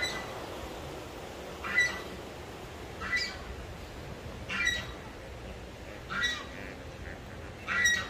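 A bird gives short, harsh, squawking calls, one about every second and a half, over a steady outdoor hiss.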